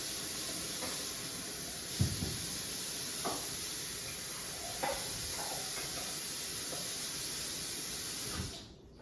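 A steady hiss that cuts off suddenly near the end, with a few soft knocks over it.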